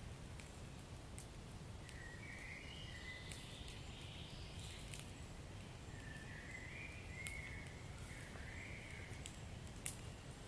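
Wood fire burning in a fireplace: a low steady rumble with scattered sharp crackles and pops, one louder pop near the end. Twice a faint wavering higher-pitched sound rises over it for a second or more.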